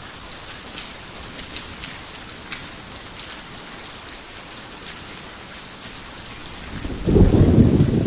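Heavy rain falling steadily with scattered sharp drip ticks; about seven seconds in, a loud low thunderclap breaks and rumbles on.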